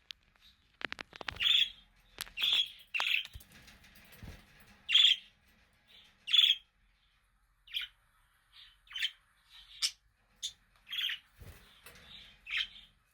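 Budgerigar chirping: about a dozen short, high chirps at uneven intervals, with a few soft low knocks in between.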